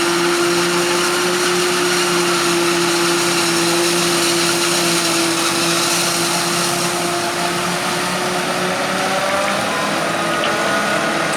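Claas Jaguar 840 self-propelled forage harvester chopping maize: a loud, steady mechanical whine with a strong hum under it. Near the end some of its tones slide in pitch.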